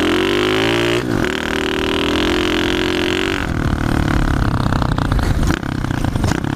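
Pit bike engine revving hard under throttle: the pitch climbs for about a second, dips briefly, and holds high until about halfway, when the throttle is shut and the engine drops to a rough, choppy off-throttle running.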